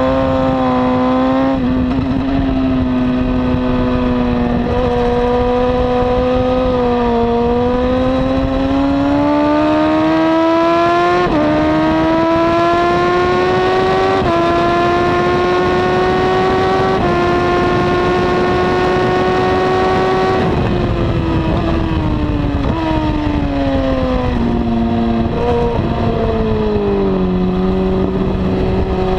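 Honda CBR954RR inline-four sport bike engine with a slip-on exhaust, heard onboard at track speed: it holds a steady pitch, then pulls hard through three upshifts with the pitch climbing in steps, and about two-thirds of the way through the throttle closes and the engine note falls through a run of downshifts.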